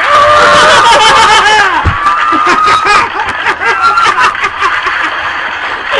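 Two people laughing hard: high, wavering squeals of laughter at first, then quick rapid-fire giggling from about three seconds in.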